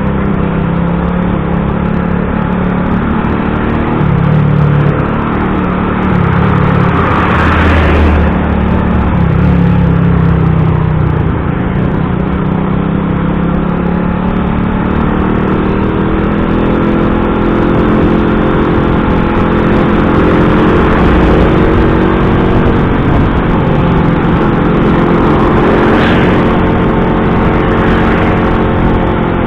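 Motor vehicle engines running in slow road traffic, their pitch rising and falling slowly as vehicles pull away and idle. Brief hissing whooshes come about seven seconds in and again near the end.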